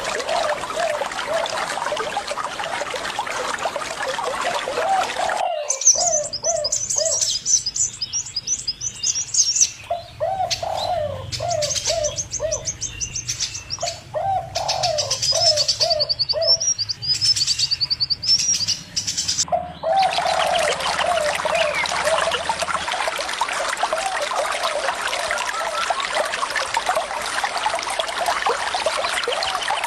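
Running water with birds calling: a bird repeats quick runs of short lower notes. In a stretch where the water drops out, about six seconds in until about twenty, small birds add high chirps and trills.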